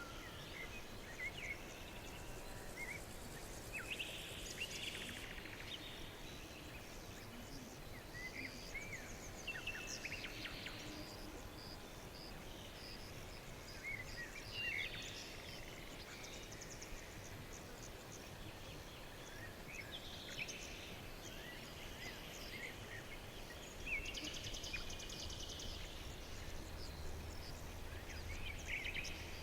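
Small songbirds singing in short, repeated chirps and trills every few seconds over a steady background hiss.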